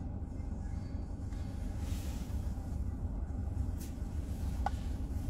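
Steady low rumble of a car on the move, heard from inside the cabin, with a brief swell of road hiss about two seconds in and a couple of faint clicks.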